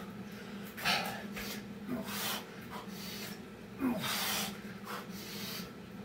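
Hard, noisy breaths from a man deep into a set of Navy SEAL burpees, a few strong exhales a second or two apart, with hands and feet scuffing on the floor. A low steady hum runs underneath.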